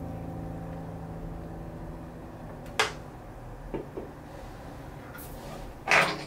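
Soft piano music fading out, then a few light clicks and, near the end, a short louder scrape as a metal fork comes down into the food in a cast-iron skillet.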